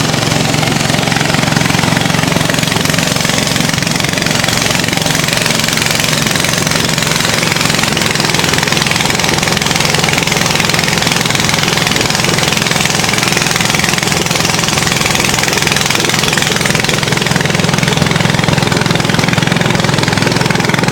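Motorboat engine running steadily at a constant speed, with a dense steady hiss over its low hum.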